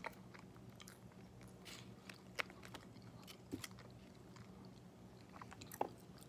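Faint close-up chewing and biting of fried chicken wings, with a few wet mouth clicks and smacks, over a faint steady hum.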